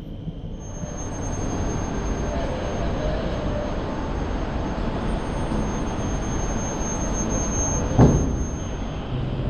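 Steady rumble and hiss of a passenger train standing at a platform, with a thin high whine over it. A single sharp metallic clank comes about eight seconds in.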